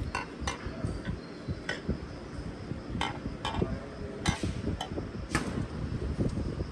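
Sharp metallic clinks and taps of metal parts being handled, about eight at irregular intervals, over a steady low rumbling.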